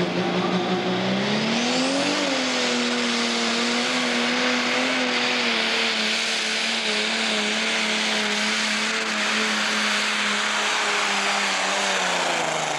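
Pro stock pulling tractor's turbocharged International diesel engine at full power dragging the weight sled. The engine note climbs steeply about two seconds in, holds high, then sags slowly as the sled loads it down. It drops away near the end. A thin rising whistle comes in as it spools up.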